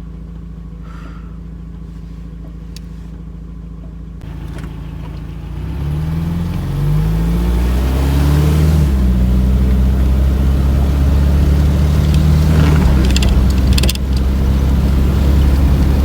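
Van engine idling steadily, then pulling away about four seconds in, revs climbing in steps as it accelerates through the gears, settling into a louder steady run with road noise.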